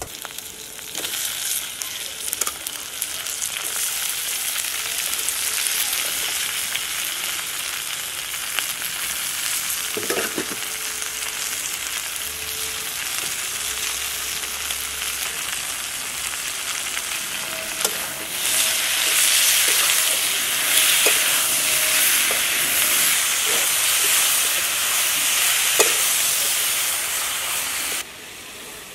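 Cut vegetables sizzling in hot oil in a wok over a wood fire, a steady frying hiss with occasional short clicks and scrapes of a metal spatula against the pan. The sizzle grows louder about two-thirds of the way through and drops off abruptly near the end.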